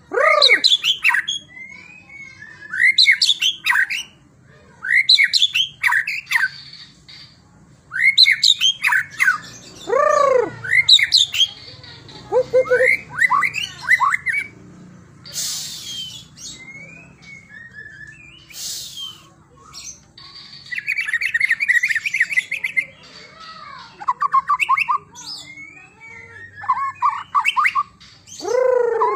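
White-rumped shama and oriental magpie-robin singing vigorously. Loud whistled phrases of sweeping notes come every second or two, with two harsh rasping calls in the middle and fast trilled runs near the end.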